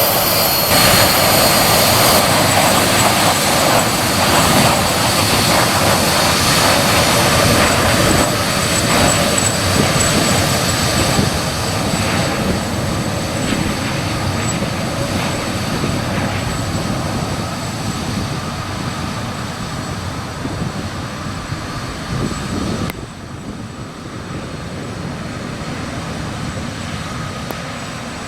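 Four-engined Avro RJ100 jet airliner departing, its turbofans loud and steady at first and then slowly fading as it moves away. About 23 seconds in, the high hiss drops out suddenly and the sound becomes duller.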